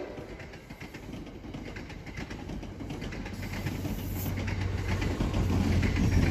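NJ Transit push-pull commuter train passing, its coach wheels clicking over the rail joints. The diesel locomotive pushing at the rear follows, its low engine drone and the rumble growing louder toward the end.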